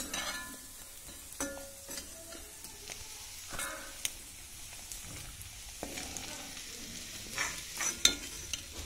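Beef pieces frying in coconut oil in a metal kadai, with a steady sizzle, while a metal ladle scrapes and knocks against the pan as the fried beef is scooped out. A clink or knock comes about once a second, some with a short metallic ring.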